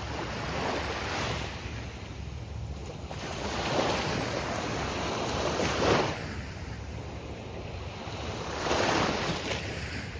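Gulf Coast surf breaking on a beach in swelling rushes every few seconds, the loudest about six seconds in. A steady low rumble of wind on the microphone runs underneath.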